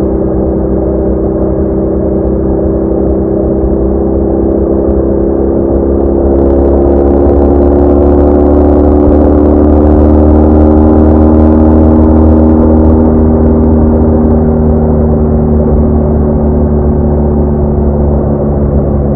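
BMW R1200R boxer-twin engine running at a steady cruise, its note climbing slightly and then easing back. A rushing hiss of wind builds for several seconds in the middle.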